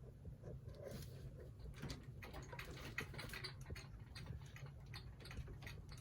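Faint, irregular light clicks and taps from handling a Cricut mug press's power cord and plug while plugging it in, over a steady low hum.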